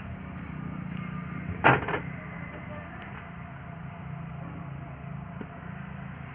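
Steady low mechanical hum with one sharp knock just under two seconds in.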